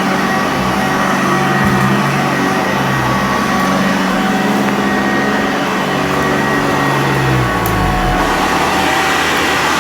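Sanitaire upright vacuum cleaner running steadily over carpet, its motor and brush roll giving a loud, even hum. The motor's pitch shifts briefly about eight seconds in.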